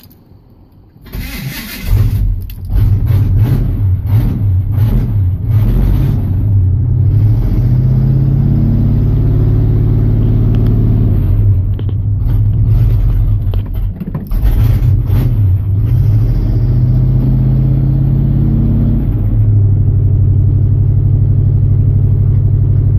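1982 Chevy Custom Deluxe pickup engine cranked about a second in and catching, then running rough and uneven with stumbles and revs on a cold start with no choke, after the owner thinks he has flooded it. It settles into a steadier idle near the end.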